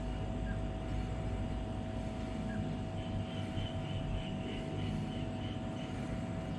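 Portable 12-volt compressor fridge running on its maximum setting just after start-up: a steady hum with a constant tone over it.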